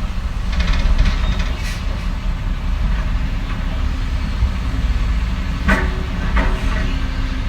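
Diesel engine of heavy earthmoving machinery running steadily, with a few short metallic clanks about a second in and again near the end.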